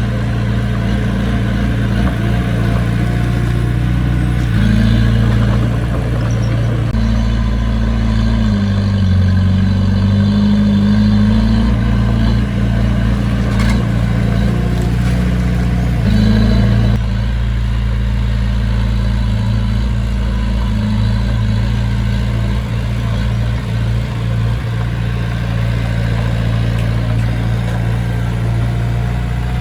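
Diesel engine of heavy earthmoving machinery running steadily under load, its low note shifting up and down several times, with a sudden change in the sound about halfway through.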